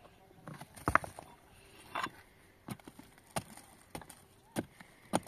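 A tool striking wood: about six sharp knocks at uneven intervals.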